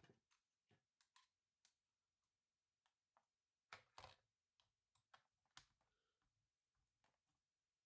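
Faint, irregular small clicks and taps, spaced unevenly, with two louder clicks close together about four seconds in.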